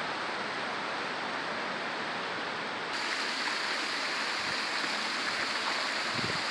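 Rushing water of a river and small hot-spring waterfalls, a steady hiss. About three seconds in it becomes louder and brighter.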